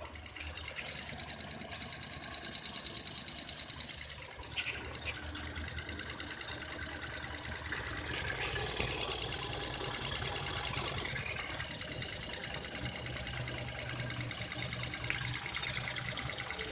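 Toyota 4A inline four-cylinder engine running steadily with a fast, even ticking, getting somewhat louder from about eight seconds in; a few sharp clicks stand out.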